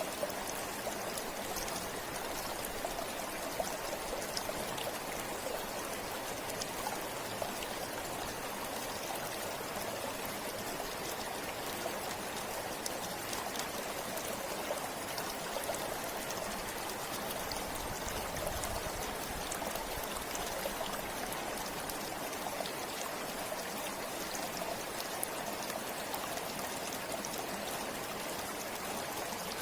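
A river or stream flowing steadily over rocks, an even rushing with fine splashing and trickling droplets.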